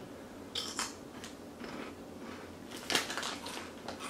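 Flamin' Hot Cheetos being chewed: irregular dry crunches, the loudest about three seconds in.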